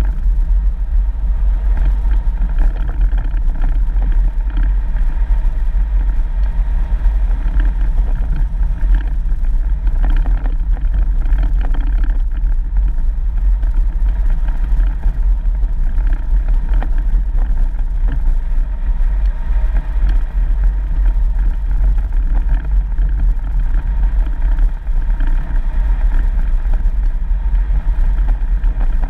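Steady low rumble of a 4x4 vehicle driving along a dirt road, engine and tyre noise running without a break.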